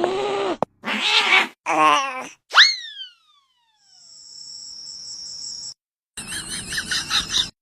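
A cartoon cat meowing and crying several times in short separate calls, then a quick whistle that shoots up and slides down. After a pause comes a steady high-pitched tone, and near the end a warbling, fluttering sound.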